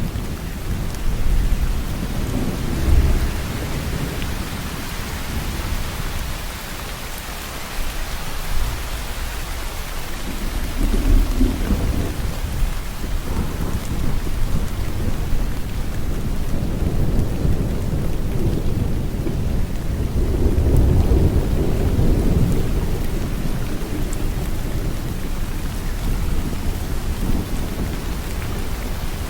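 Steady heavy rain with low rumbles of thunder rolling through, swelling about three, eleven and twenty-one seconds in.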